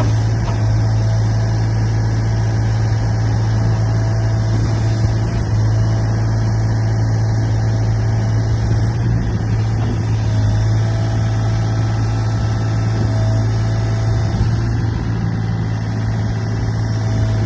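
Sany SY35U mini excavator's diesel engine running at a steady idle, with an even low hum.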